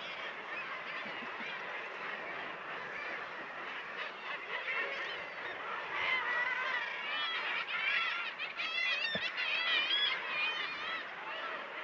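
Seabird colony calling: many birds calling over one another throughout, with a run of louder rising-and-falling calls close by from about six seconds in.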